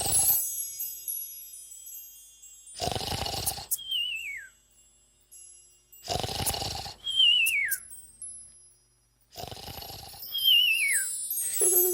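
Comic snoring sound effect: a short rasping snore followed by a falling whistle on the out-breath, repeated about every three and a half seconds, three whistles in all.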